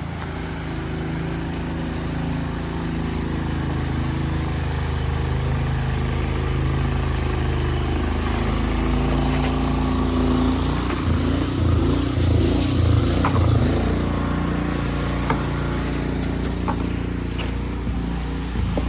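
A motor vehicle engine running close by in street traffic, a steady low hum that grows louder and rougher around the middle.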